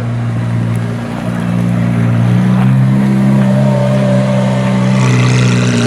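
A sports car's engine running loud and steady at low revs close by. The pitch lifts slightly about a second or two in, then holds.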